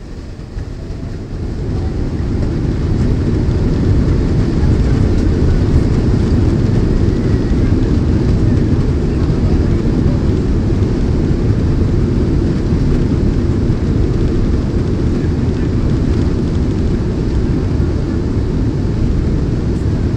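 Boeing jet airliner's engines spooling up to take-off power, heard from inside the cabin: a deep, loud rumble that builds over the first few seconds, then holds steady.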